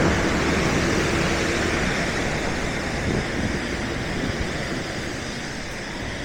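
Steady rushing wash of floodwater mixed with vehicle noise, slowly fading.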